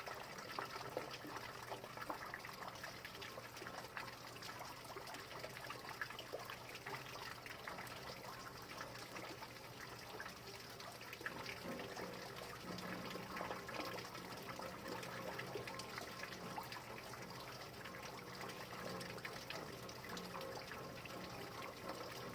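Rain falling steadily, with many small drop hits.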